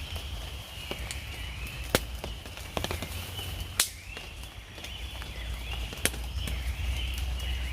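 Three sharp knocks, about two seconds apart, over a repeating high-pitched chirping chorus and a steady low rumble.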